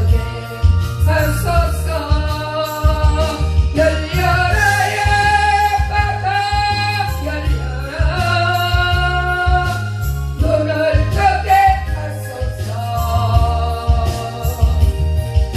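A Korean gospel song: singing with long held notes over an accompaniment with a steady pulsing bass beat.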